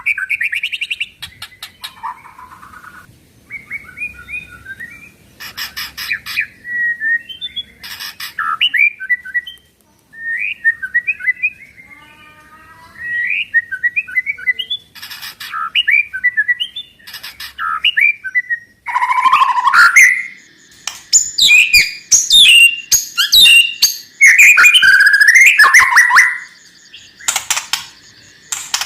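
White-rumped shama (murai batu) singing: a run of varied whistled and chattering phrases broken by short harsh rattles ('kretekan'). The song grows louder and denser from about two-thirds of the way through.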